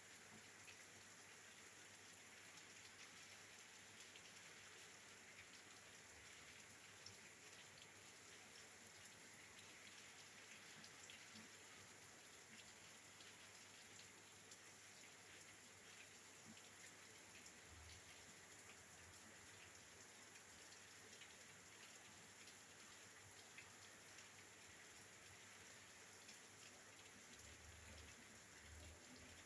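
Rain falling on and around a window, faint and steady, with many small drop ticks.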